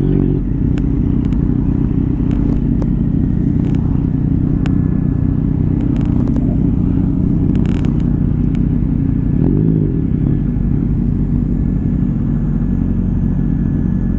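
Small motorcycle engine running steadily as it is ridden, with a brief rise and fall in pitch about two-thirds of the way through.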